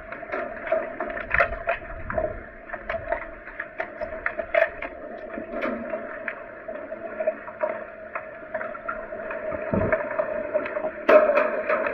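Sound of an underwater hockey game in a pool: muffled water noise with frequent irregular clicks and knocks, growing louder about a second before the end.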